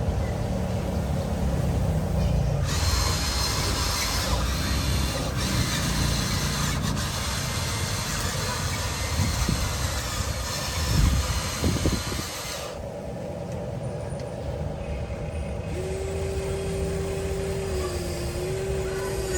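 Small electric motors of an RC excavator and dump truck running under load, with a scraping hiss from about three seconds in to about thirteen and a few knocks around eleven seconds. A steady motor whine starts about sixteen seconds in, its pitch dipping slightly now and then.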